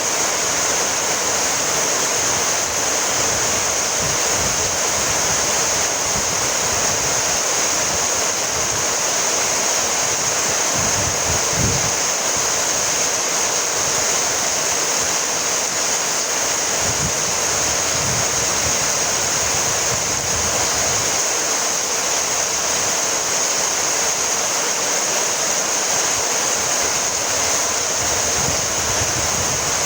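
Steady rainfall: an even, continuous hiss of rain, with a couple of brief low rumbles in the middle.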